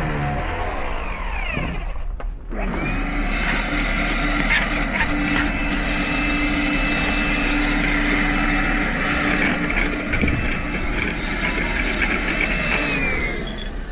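Small electric motor winding down in the first two seconds, then starting up again and running at a steady high speed for about ten seconds before winding down near the end.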